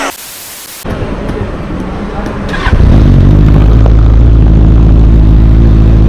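Benelli TNT 600i's inline-four engine fires up about two and a half seconds in and settles into a loud, steady idle through its twin under-seat exhausts.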